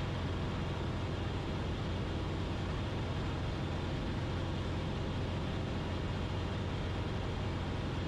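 Cessna 172RG's four-cylinder Lycoming engine and propeller running steadily in flight, a constant low drone heard inside the cabin.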